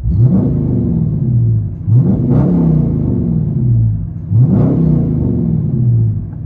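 Straight-piped 5.7-litre HEMI V8 of a 2021 Dodge Charger R/T, with its mid and rear mufflers deleted, revved three times from idle, each rev rising sharply and then falling back over about a second and a half. It is heard from inside the car's cabin.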